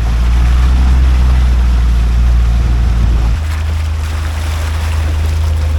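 A vehicle's engine running steadily with a loud low hum over a rushing noise; about three and a half seconds in, its note steps down to a lower pitch.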